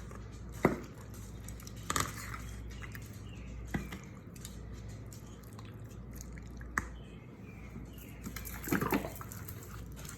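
Kitchen handling sounds as jerk marinade is added to cut-up raw chicken: a few light knocks and clicks with wet liquid sounds, spaced a second or two apart, and the loudest cluster near the end.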